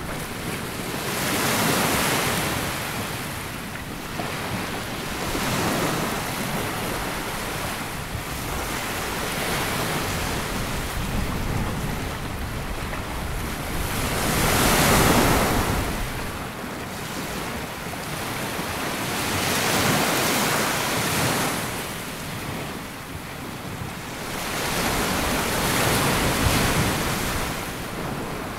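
Sea waves breaking and washing up a sandy beach, each wave swelling and fading every few seconds, the loudest about halfway through.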